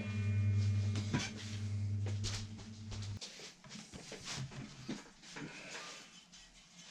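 A strummed guitar chord on the newly assembled Effonia Stellar rings out and is cut off abruptly about three seconds in. Light clicks and knocks of the instrument being handled follow.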